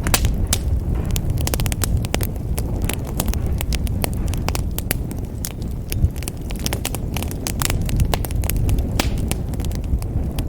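Wood fire crackling in a fireplace: many sharp, irregular pops and snaps over a low, steady rumble of flames.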